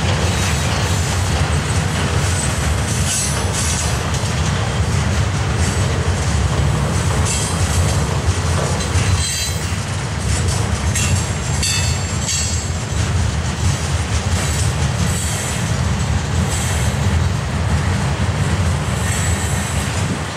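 Freight train of gondola cars rolling past: a steady low rumble of steel wheels on rail, with high-pitched wheel squeal and clatter coming and going.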